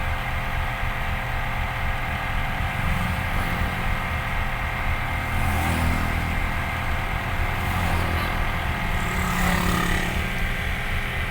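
Truck engine running steadily with a low drone, a little heavier in the middle.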